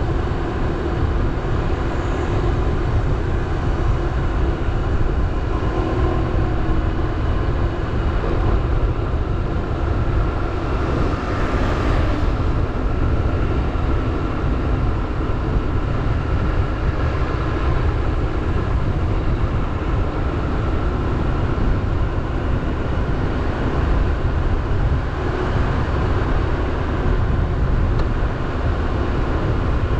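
Motorbike engine running steadily while riding, under a heavy, constant rumble of wind on the microphone. A brief brighter hiss rises and fades about twelve seconds in.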